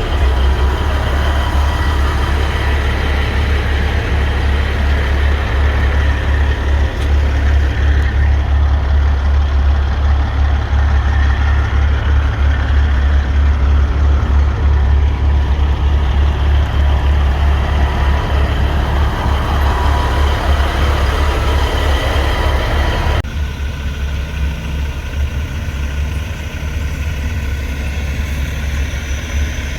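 Semi truck diesel engine running up close, a steady low rumble. The sound drops abruptly and stays quieter about two-thirds of the way through.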